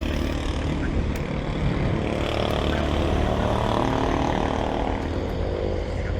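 CFMoto 450SR parallel-twin motorcycle engine running under way, its pitch rising and then easing back about midway.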